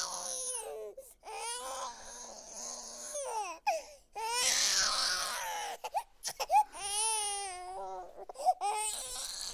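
Infant crying: a string of wailing cries, each rising and falling in pitch, broken by short catches of breath.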